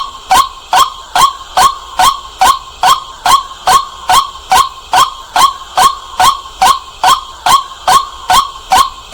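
White-breasted waterhen calling: a loud, steady series of short repeated calls, a little over two a second.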